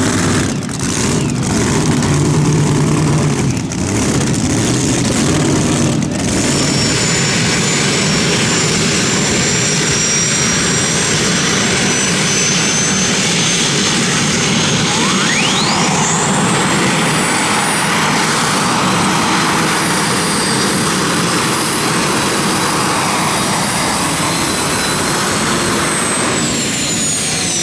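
Pulling tractor's engine running hard at full power. A high whine climbs steeply about fifteen seconds in, holds, and starts to fall near the end.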